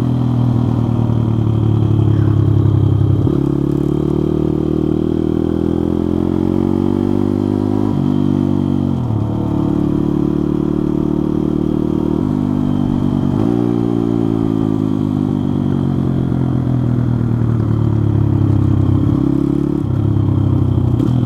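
Pit bike's small single-cylinder engine under way, its pitch climbing as it pulls and dropping suddenly at each gear change, several times over.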